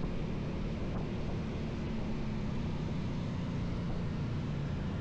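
Motorcycle engine running steadily while riding, under a constant haze of wind and road noise.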